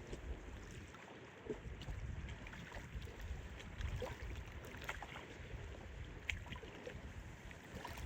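Strong wind buffeting the microphone with a low, gusting rumble, while choppy lake water laps and splashes in short, irregular slaps.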